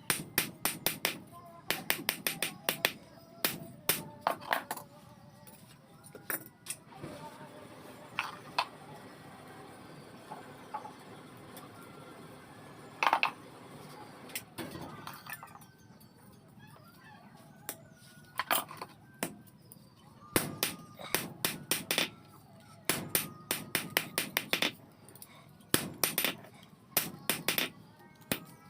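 Hammer blows on metal in runs of quick strikes, with a lull of about ten seconds in the middle broken by only a few single blows.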